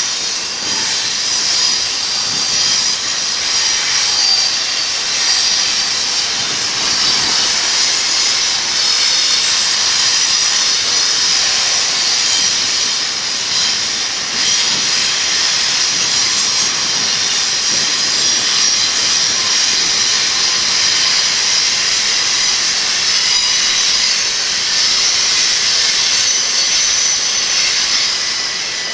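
BNSF double-stack intermodal train's container cars rolling downgrade through curves: a steady, loud, high-pitched hiss with several held high tones.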